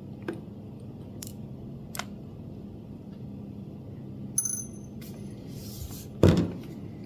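Small scattered clicks and taps of a precision Phillips screwdriver and tiny screws on the plastic housing of a Nintendo Switch as its side-rail screws come out, with a brief metallic tinkle about four seconds in and a duller knock near the end, the loudest sound.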